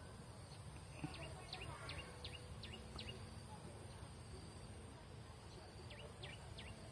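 A small bird calling: short, falling chirps, a quick run of about five a second or two in and a few more near the end, over faint outdoor background noise.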